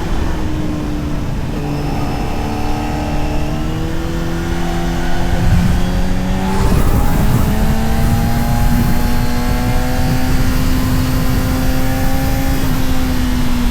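Honda CBR600RR sport bike's inline-four engine pulling under way, with wind rush over the rider. About six and a half seconds in there is a brief noisy break, after which the engine runs a little louder at a steady pitch that eases off near the end.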